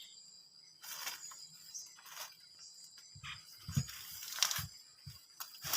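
Irregular rustling and crackling handling noises with a few soft low thumps, over a steady high drone of insects.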